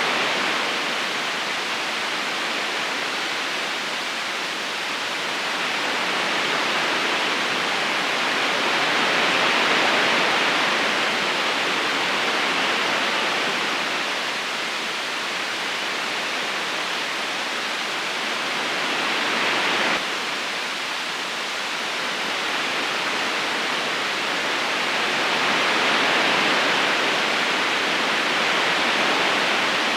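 Steady rushing of a flowing river, its level swelling and easing slowly, with a small sudden drop in level about twenty seconds in.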